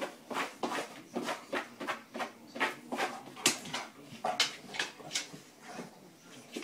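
A golden retriever pawing and scratching at a mat on a hardwood floor: irregular scrapes and knocks of its claws, about two or three a second.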